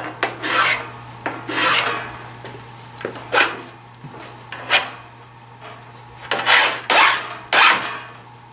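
Hand file rasping along the freshly sawn edge of an aluminium plate, about seven uneven strokes, deburring the cut. A faint steady low hum runs underneath.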